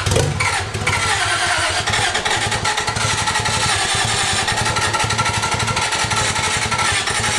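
Toyota 2JZ straight-six on short open exhaust pipes cranking and firing unevenly, close to running but not running cleanly, then stopping near the end. It is a first start on a new standalone ECU tune that the tuner thinks needs more fuel.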